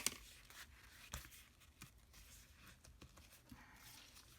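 Faint rustling of paper and card being handled, with one sharp click at the very start and a few small taps.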